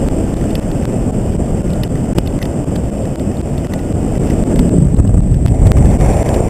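Heavy wind buffeting the microphone of a paraglider pilot in flight: a loud, steady low rumble, with scattered faint ticks on top.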